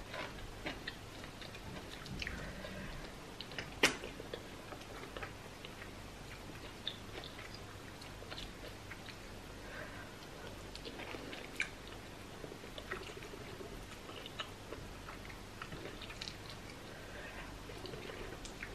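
Close-miked chewing and mouth sounds of a person eating seafood okra soup by hand, with scattered small clicks and one sharp click about four seconds in.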